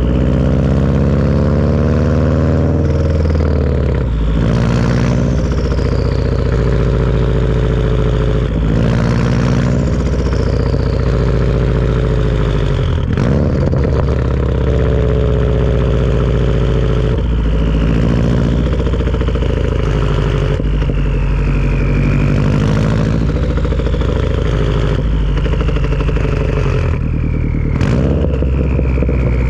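Subaru turbocharged engine with a Tomei turbo-back exhaust running under repeated throttle, its turbo whistle rising to a high pitch and then sliding slowly down as revs fall, about five times. A few short sharp clicks fall between the spool-ups.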